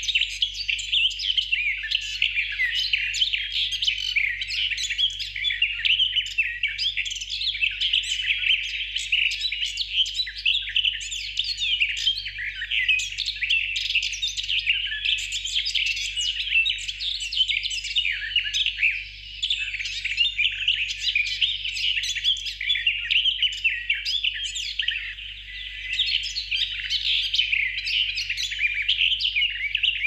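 Songbirds chirping and singing without a break, a dense chorus of quick, high overlapping chirps.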